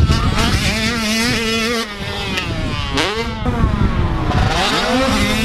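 Several 85cc two-stroke motocross bikes racing, their engines revving up and down; one rises sharply and drops again about three seconds in. A heavy low rumble of wind buffets the microphone.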